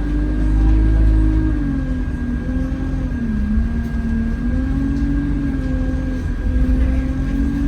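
Alexander Dennis Enviro200 bus diesel engine running on the move inside the bus, its note dipping and rising a few times as speed changes, over a low rumble. A thin steady high whine runs alongside it: the weird 'vacuum cleaner' sound that the rider suspects comes from the air-conditioning cooling fan.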